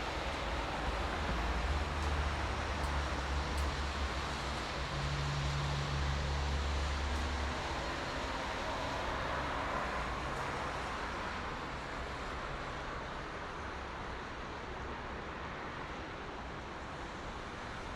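Steady highway traffic: a continuous wash of tyre and engine noise. A deep low rumble runs through the first eight seconds or so, and a passing swell comes about ten seconds in before the noise eases slightly.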